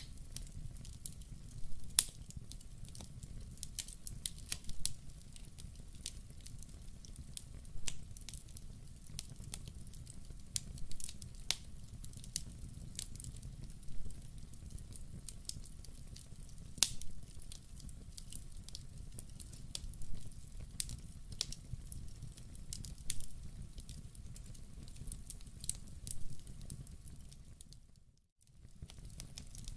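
Wood fire burning in a fireplace: a low steady rush of flame with sharp, irregular crackles and pops. The sound dips away briefly near the end, then returns.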